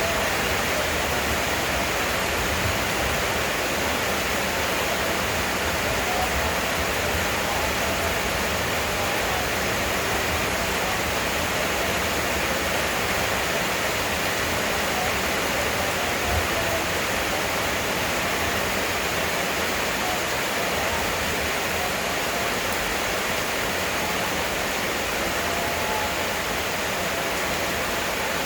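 Heavy rain pouring down as a steady, dense hiss with no let-up. There is one brief low knock about sixteen seconds in.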